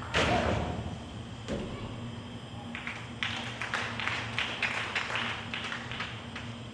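A heavy thud just after the start, a softer thump about a second later, then a run of quick, sharp taps lasting about three seconds, from a gymnastics vault.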